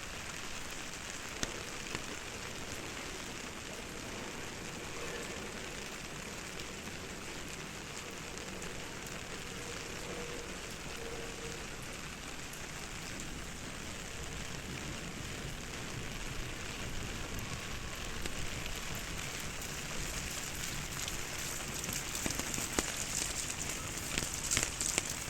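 Steady rain falling, with drops ticking on an umbrella overhead. It grows a little louder in the second half, with denser, sharper drop ticks near the end.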